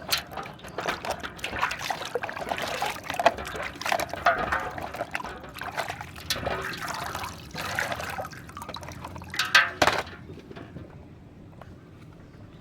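Water splashing and trickling as muddy toy vehicles are washed in it, with small clicks throughout. A few sharp clicks come near the end, and then the sound dies down.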